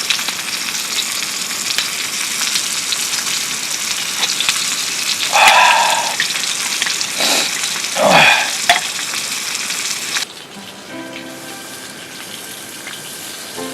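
Food sizzling steadily in a hot pan, with a few brief louder sounds around the middle. About ten seconds in, the sizzle cuts off abruptly and soft background music with held notes takes over.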